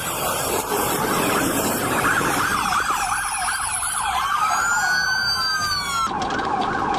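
Police car sirens sounding on a pursuit, with fast repeated yelp sweeps overlapping and a slower rising-and-falling wail about four seconds in. The sound changes abruptly near the end.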